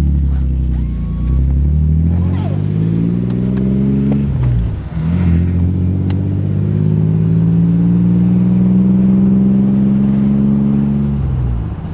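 Nissan 300ZX (Z32) engine pulling the car under acceleration: its pitch climbs, drops about four seconds in, climbs again and holds, then falls away near the end. The engine is running good.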